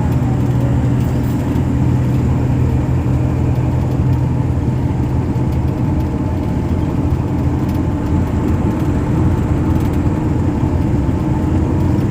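Steady low rumble of a running motor vehicle, with a few faint steady tones over it.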